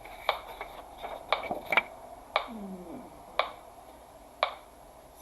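Metronome clicking steadily, about one sharp click a second.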